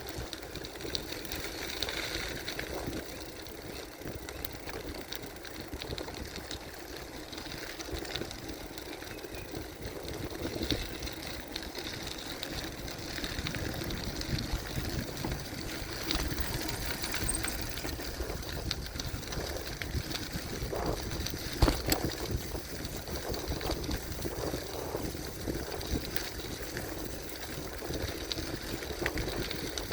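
Gravel bike ridden along a trail: steady tyre rumble and the bike rattling over the uneven ground, with one sharp knock a little past the middle.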